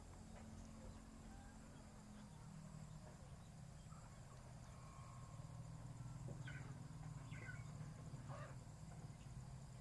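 A few faint, short frog calls a little after halfway, over a steady low hum.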